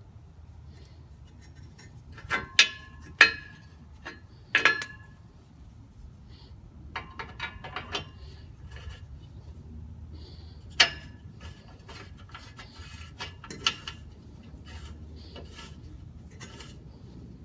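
Metal tools and parts clinking and tapping while an O2 sensor with a spark plug non-fouler spacer is handled and threaded in by hand: a handful of sharp metallic clinks with a short ring, loudest about two to five seconds in and again near eleven and fourteen seconds, with quieter small clicks and rubbing between.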